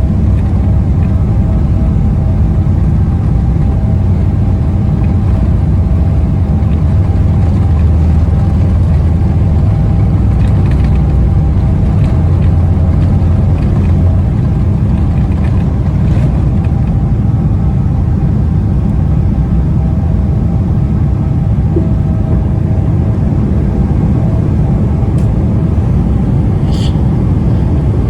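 Jet airliner cabin noise during takeoff: a loud, steady low rumble of the engines and airframe with a constant hum over it. The deepest part of the rumble eases about halfway through.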